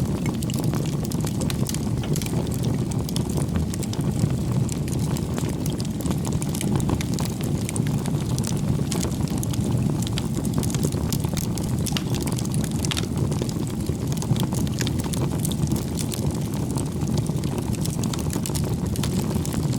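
Bonfire of firewood burning: a steady low noise from the flames with frequent small, sharp crackles and pops.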